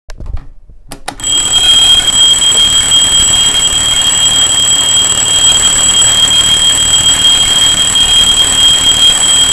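Alarm clock ringing, loud and continuous, starting about a second in after a few faint clicks.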